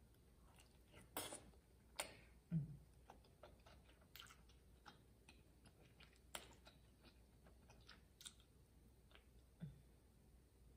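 Faint, close-miked chewing of cheesy tteokbokki rice cakes and glass noodles: scattered wet mouth clicks and smacks, a few of them louder. A brief low hum comes about two and a half seconds in, and another near the end.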